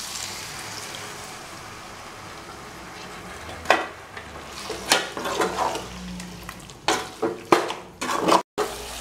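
Vinegar sizzling as it hits the hot sesame oil and spiced gooseberry mixture in an aluminium pot, a steady hiss, with a metal spoon stirring and knocking against the pot several times from about halfway through.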